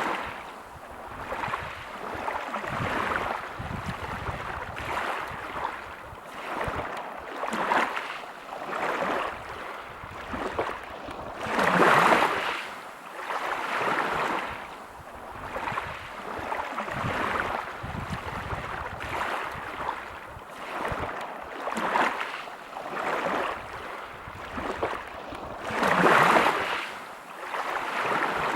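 Sea waves breaking and washing over a pebble beach, the surf swelling and falling back every second or two, with two bigger waves about twelve seconds in and near the end.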